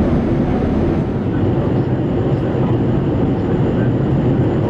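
Steady rumble of a Boeing 787-8 airliner heard from inside the cabin: engine and air noise.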